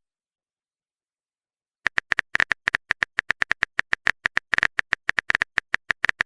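Silence for nearly two seconds, then a quick, irregular run of short clicks from a smartphone keyboard typing sound effect as a message is typed out.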